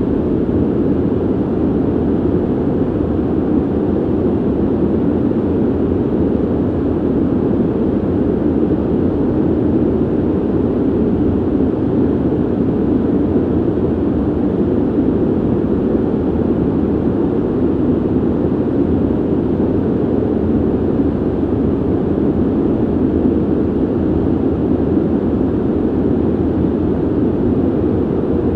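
Ventilation noise: a steady, low, even rush of air with no changes.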